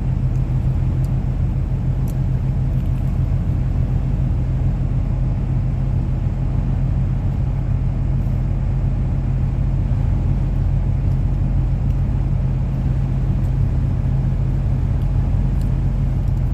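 Car running, a steady low rumble.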